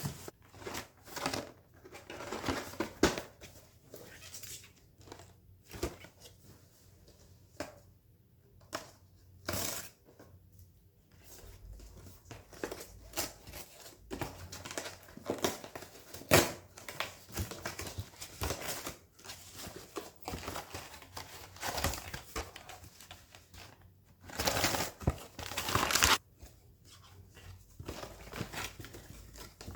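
Crinkling and rustling of something being handled, like plastic or paper packaging, broken by scattered light knocks and clicks, with a longer stretch of rustling near the end.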